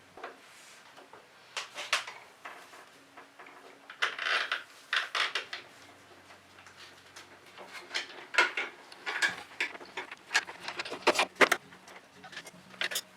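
Irregular clicks, taps and short rattles of small parts handled by hand: batteries being fitted into the battery compartment of the bench drill's laser unit.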